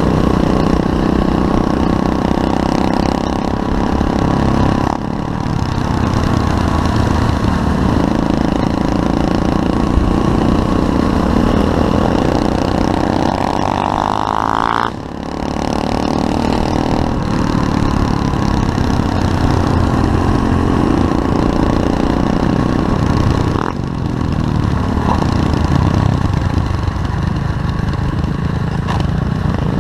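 SSR 125cc pit bike's single-cylinder four-stroke engine running under way. It revs up in a rising sweep and cuts off about halfway through, with brief easings of the throttle near the start and again later.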